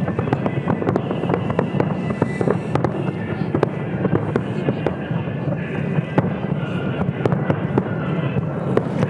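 Fireworks display in full barrage: a dense, continuous crackle of many small overlapping bangs and pops over a low rumble, with no break.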